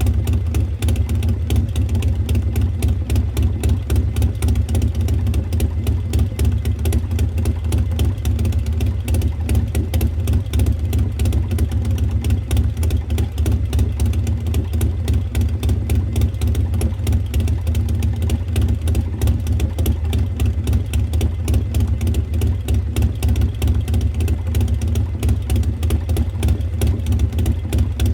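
Harley-Davidson Milwaukee-Eight V-twin, fitted with an S&S 475 cam, a Performance Machine Super Gas air cleaner and a Burns Stainless 2-into-1 exhaust, idling steadily with an even pulse of firing strokes through the exhaust.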